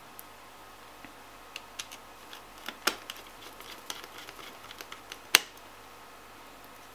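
Scattered small clicks and taps of plastic and metal as the cooling fan of an Asus HD 7850 graphics card is handled and fitted back onto its heatsink, with one sharp snap about five seconds in.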